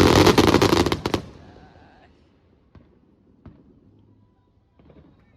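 Fireworks crackling in a dense barrage of rapid sharp pops that stops about a second in, followed by two faint single pops.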